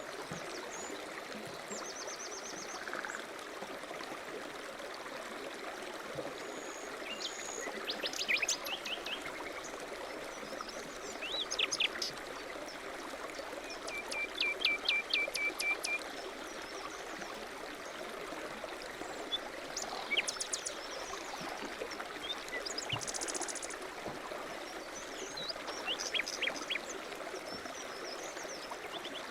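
Several small songbirds chirping and trilling in short phrases every few seconds, including a run of rapid repeated notes about halfway through, over a steady rushing background hiss.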